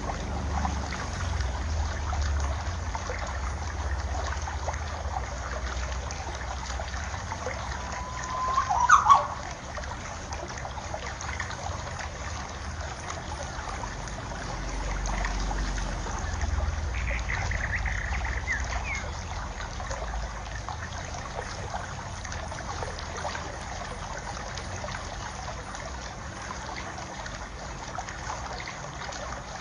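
Water trickling steadily, with low gusts of wind on the microphone. A brief loud squeak with a sliding pitch about nine seconds in, and a quick run of bird chirps a little past halfway.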